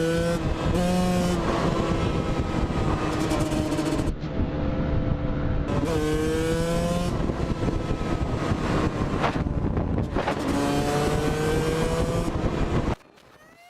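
Motorcycle engine accelerating hard, its pitch climbing again and again as it revs up through the gears, over a loud rushing noise. The sound changes abruptly a few times and cuts off suddenly near the end.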